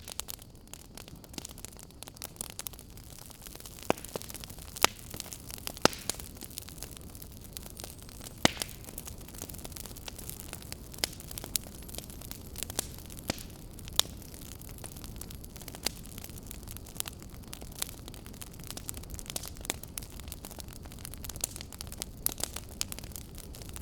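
Fire crackling: irregular sharp pops and snaps, several of them standing out loudly, over a steady low rumble and hiss.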